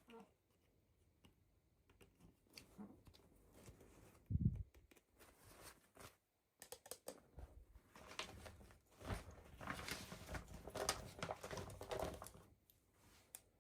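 Toy packaging being handled and opened: faint rustling, crinkling and small clicks, with one dull thump about four and a half seconds in and busier rustling near the end.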